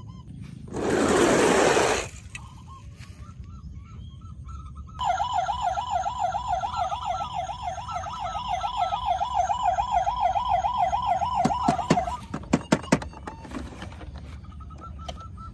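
Toy vehicle's electronic siren, a fast warbling wail that comes in loud about five seconds in and cuts off about seven seconds later. A few sharp clicks follow. A fainter warble of the same kind plays before and after, and a burst of hiss lasting about a second comes near the start.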